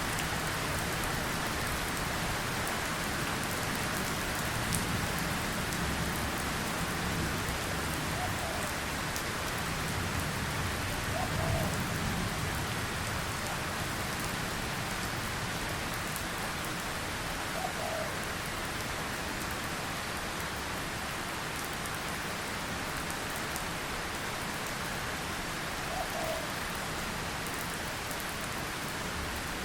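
Steady rain falling, an even hiss of drops throughout, with a few faint short higher notes heard now and then.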